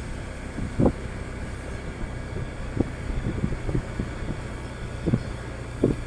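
Motorcycle riding with a steady low engine rumble and wind on the microphone. Several short thumps fall irregularly through it, the loudest about a second in.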